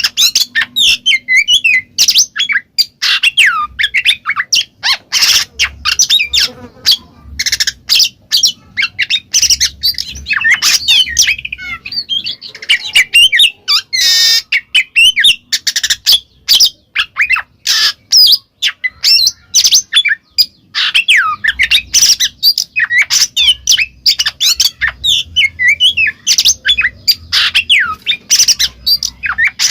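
Oriental magpie-robin (kacer) singing at full voice ('ngeplong'): a loud, fast, almost unbroken run of sharp whistled notes, slides and clicks with only brief pauses.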